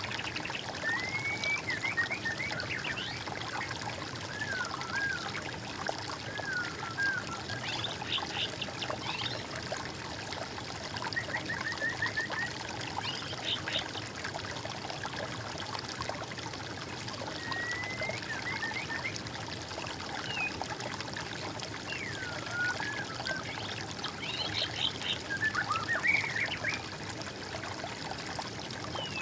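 Water trickling and pouring steadily, with songbirds calling over it: short rising whistles and quick trills every few seconds.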